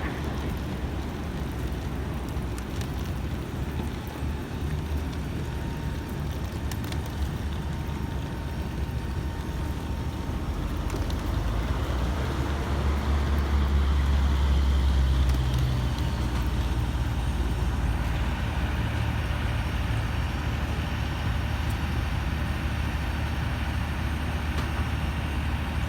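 Low, steady vehicle engine rumble that swells to its loudest around the middle, then settles.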